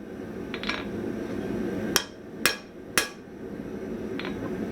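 Hand hammer striking steel on an anvil while forging a spring-steel shear jaw: a light tap early on, then three sharp ringing blows about half a second apart a couple of seconds in, and a lighter tap near the end. A steady rushing noise runs underneath and grows slowly louder.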